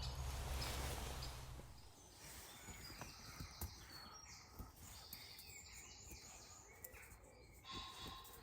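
For about two seconds there is a steady rushing noise with a low hum. It fades, and then many short, high bird chirps and calls follow, with a few faint clicks.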